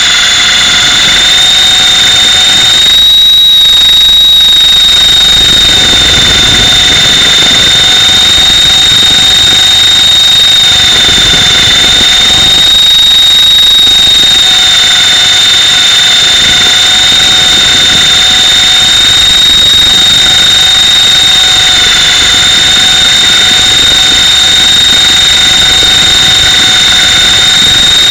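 Mini Titan E325 electric RC helicopter in flight, heard from a camera mounted on it: a loud, steady, high-pitched whine from its brushless motor and drive gears over a rushing rotor wash, the pitch wavering slightly.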